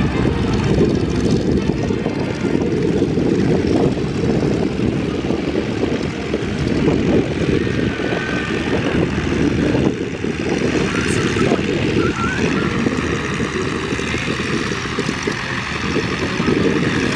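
Radial engines of propeller training biplanes running steadily, a dense, even drone with its weight in the low end that hardly changes throughout.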